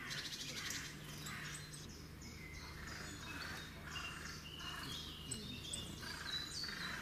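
Faint outdoor ambience: birds chirping in many short repeated calls over a low steady hum.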